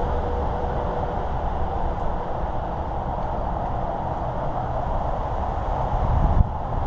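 Steady rush of wind over the microphone, with rolling noise from a bicycle moving along a paved trail. A brief low bump comes near the end.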